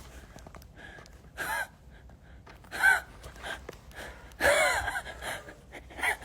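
A person making short, sharp voiced gasps, about five in a row, each a brief rising and falling cry.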